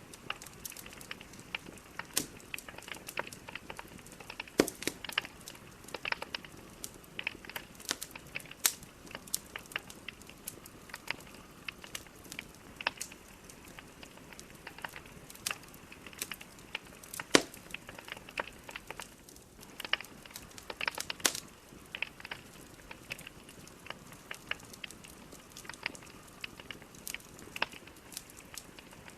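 Wood fire burning in a fireplace: a low hiss with frequent irregular crackles and sharp pops from the burning logs.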